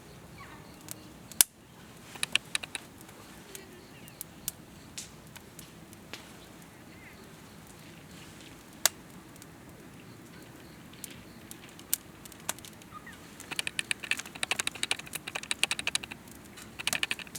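Campfire crackling and popping: a sharp pop about a second and a half in, a quick burst of crackles just after, scattered single pops, then a longer run of rapid crackling near the end, over a low steady hiss.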